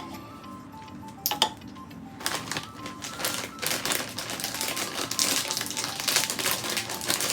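Plastic snack packet crinkling and crackling as it is handled, in a dense run of rapid clicks from about two seconds in, after two sharp clicks earlier on; soft background music plays underneath.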